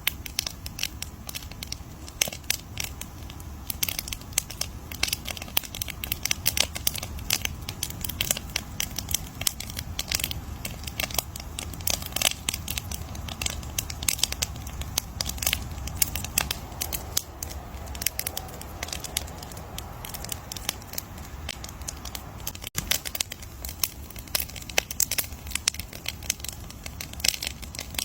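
Wood campfire crackling, with dense, irregular snaps and pops throughout over a steady low rumble.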